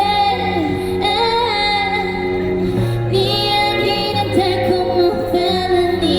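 A woman singing a pop ballad over a recorded backing track, her voice gliding and holding long notes above steady sustained bass and chords.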